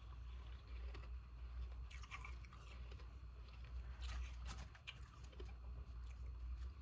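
Frozen ice pieces being bitten and chewed, crisp irregular crunches close to the microphone, with a steady low hum underneath.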